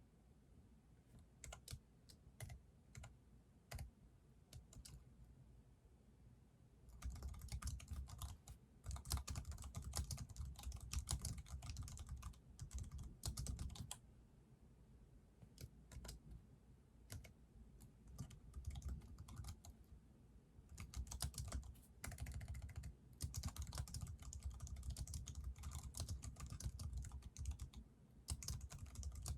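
Typing on a computer keyboard: a few scattered keystrokes at first, then fast runs of typing, broken by a pause of several seconds with only the odd keystroke in the middle.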